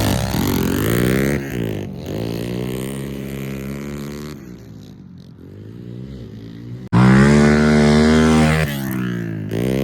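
Pit bike engine revving as it is ridden, its pitch rising and falling with the throttle. It fades for a few seconds, then is suddenly much louder and closer about seven seconds in.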